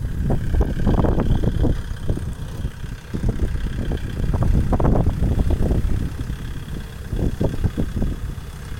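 Kubota tractor diesel engine running under load while disc-ploughing hard field soil, uneven, with frequent irregular knocks over the steady low rumble.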